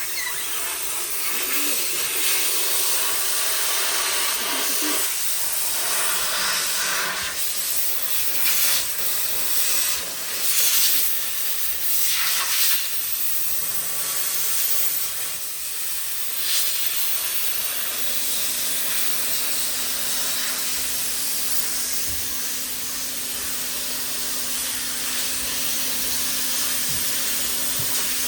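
Steady hiss of compressed air from a body-shop air tool, swelling briefly a few times. A low steady hum joins about two-thirds of the way through.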